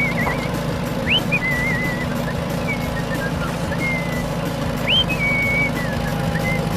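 A steady low vehicle-engine drone with high whistling chirps over it; every second or so a chirp sweeps sharply upward, then holds or wavers at a high pitch.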